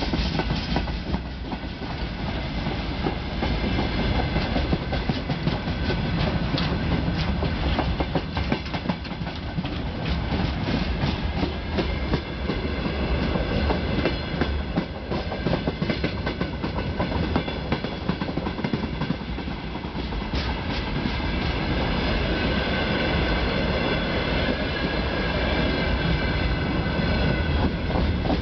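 Freight train of open gondola wagons rolling past close by: a steady rumble with clattering of wheels over the rail joints. Faint high ringing tones grow stronger over the last several seconds.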